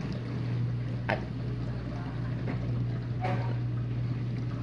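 Whirlpool dishwasher draining: the drain pump runs with a steady low hum as water is pumped out after the wash, before the final rinse.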